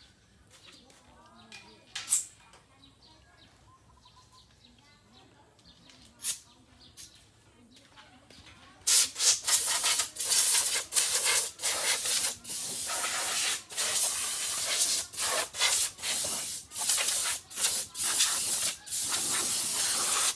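High-pressure spray gun hissing in many short on-off bursts, starting about halfway through, with faint bird chirps and a couple of clicks before it.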